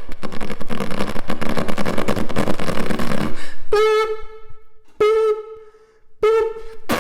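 A person imitating a car with their voice: a rapid pulsing engine noise for about three and a half seconds, then three honks imitating a car horn, each about a second long or a little less.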